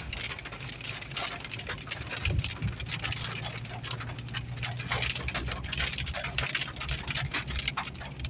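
Rain mixed with sleet pelting the car's windshield and roof, heard from inside the cabin as a dense, irregular patter of ticks, with the car's engine humming low underneath.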